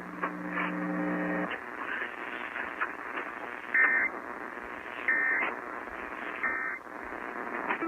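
Weather radio static with a low steady hum that stops about a second and a half in, then three short bursts of EAS SAME digital data tones, about 1.3 s apart: the end-of-message signal that closes a broadcast alert.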